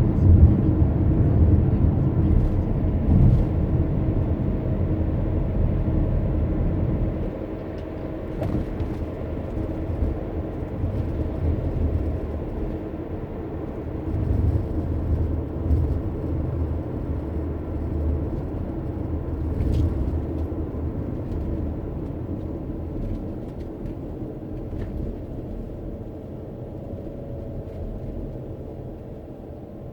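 Car driving, with a steady low road and engine rumble; it is loudest for the first several seconds, drops about seven seconds in, then fades gradually toward the end.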